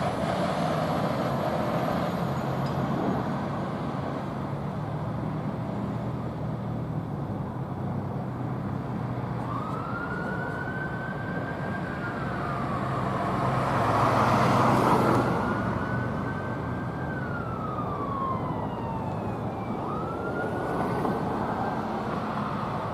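Fire ladder truck responding: its engine runs steadily, and about ten seconds in its siren starts a slow wail, rising, holding and falling three times. The sound is loudest a little past the middle.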